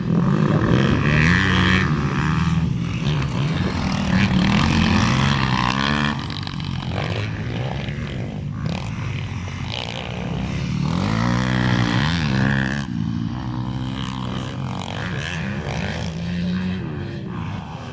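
Several motocross dirt-bike engines revving, their pitch rising and falling over and over with the throttle, loudest in the first six seconds.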